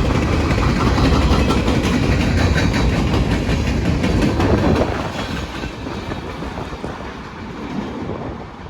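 Freight cars of a mixed manifest train rolling past, wheels clattering over the rails. The noise drops sharply about five seconds in, then fades away.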